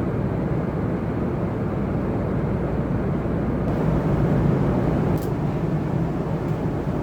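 Steady cabin noise inside a Boeing 747-400 in flight: an even, low rush of engine and airflow noise, with a faint click about five seconds in.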